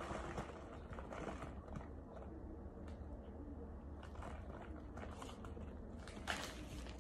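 Faint, irregular crackling of a mouth chewing chunks of baked starch, with a louder crunch about six seconds in. The crunch is soft and silky rather than hard.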